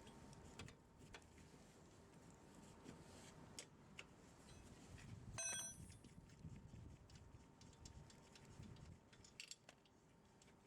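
Faint, scattered clicks and knocks of metal tools and wheel hardware being handled during a tyre change, with one short metallic ring about halfway through.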